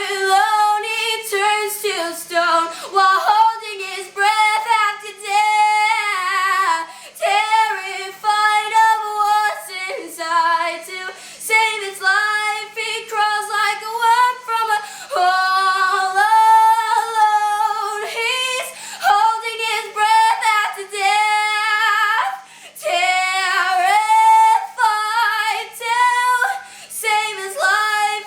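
A young girl singing unaccompanied, a high melodic line of held and wavering notes with short breaks between phrases.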